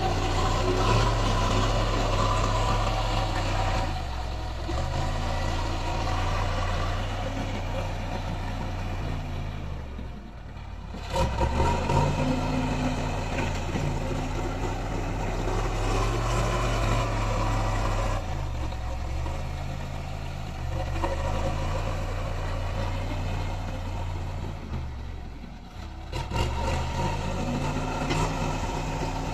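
Diesel engine of heavy road-construction machinery running under varying load, its note falling and rising; it eases off and picks up again twice.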